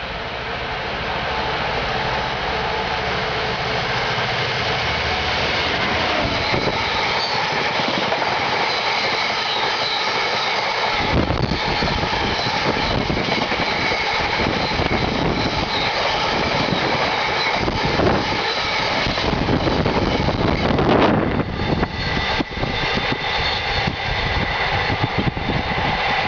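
Class 66 diesel-electric locomotive's two-stroke V12 engine under power, growing louder as it approaches and runs past. Its train of tank wagons then rolls by, with a rapid clatter of wheels over rail joints in the last few seconds.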